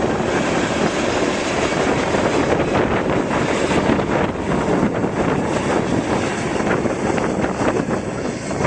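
Union Pacific freight train rolling by, a loud steady rumble and clatter of wheels on rail.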